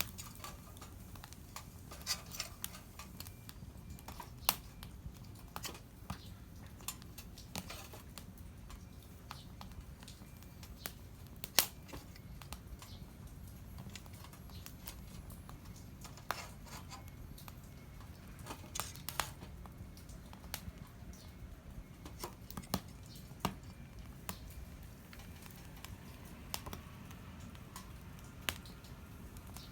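Small wood fire crackling: irregular sharp pops and snaps, one louder crack about a third of the way in, over a steady low background rumble.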